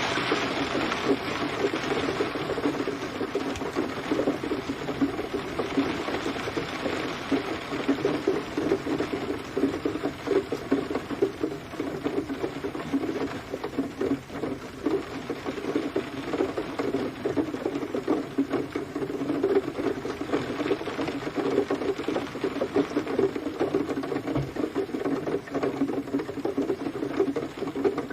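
Steady rain pattering on a hard surface, a dense, even run of small drop impacts with no thunder.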